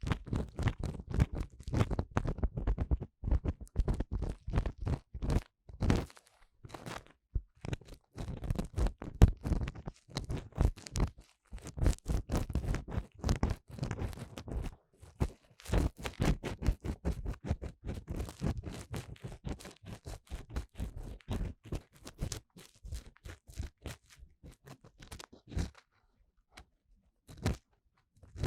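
Ear cleaning inside the silicone ear of a 3Dio binaural microphone: dense, crackly scratching and scraping in quick, irregular strokes with short pauses. The strokes grow sparser and fainter near the end.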